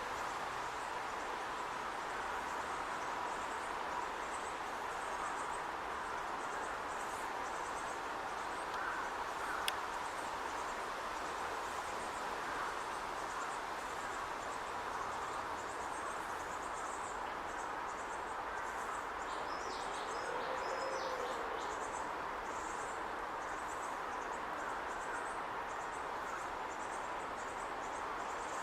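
Steady outdoor background hiss with faint, high chirping calls scattered through, and a short run of descending bird-like notes about two-thirds of the way in.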